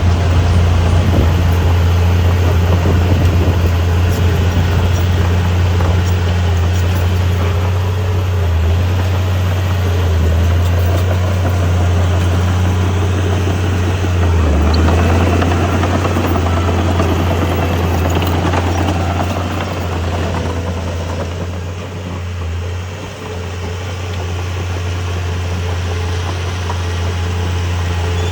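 Heavy diesel engine of earthmoving equipment running steadily with a low drone, easing off briefly about three-quarters of the way through.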